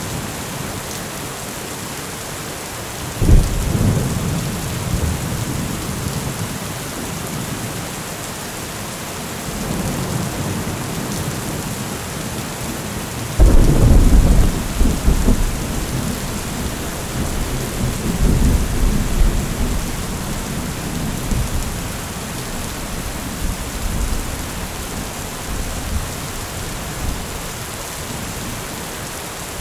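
Heavy rain falling steadily through a thunderstorm. Two sudden cracks of thunder, one about three seconds in and a louder one about thirteen seconds in, each roll off into a low rumble. Another rumble follows a few seconds after the second crack.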